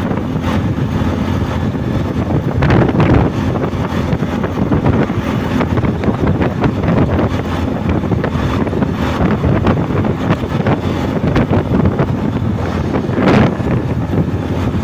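Wind buffeting the microphone on a moving bike, with a steady vehicle rumble underneath, gusting louder about three seconds in and again near the end.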